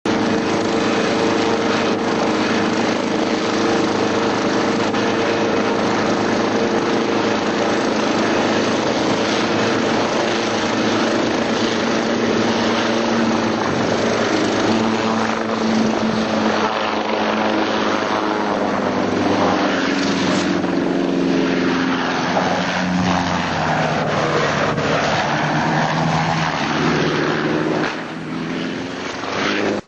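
Helicopter engine and rotor running, steady at first; about halfway through its pitch starts wandering up and down, and the level drops briefly near the end.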